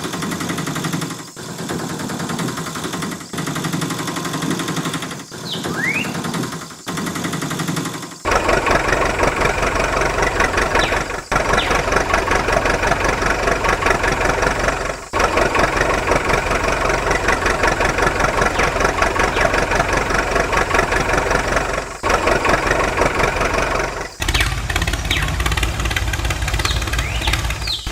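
An engine running with a fast, even chugging, louder and fuller from about eight seconds in, broken by several sudden cuts.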